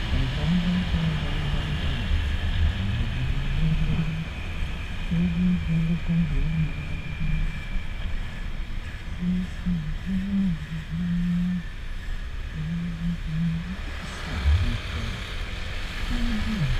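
Honda PCX scooter on the move, its single-cylinder engine note stepping up and down with the throttle over a steady low wind rumble on the microphone.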